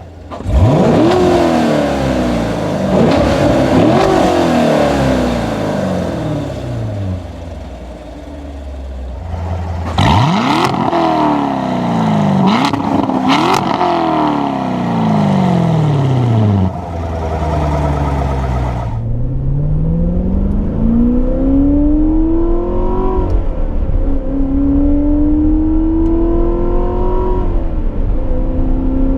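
Chevrolet Corvette Stingray's 6.2-litre LT1 V8 through its dual-mode exhaust, accelerating hard in several runs. Engine speed climbs, dips briefly at each upshift and climbs again, and between runs it falls away as the car eases off.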